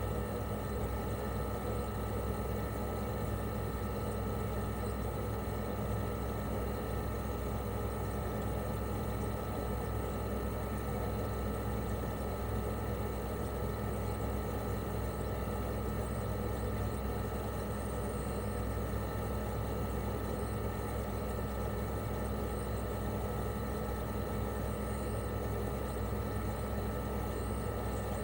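Toshiba RAS-285BAD mini-split outdoor unit, a 1997 model with a twin rotary compressor, running steadily in cooling mode: a smooth, even compressor hum under a thin steady high whine, with the propeller fan turning.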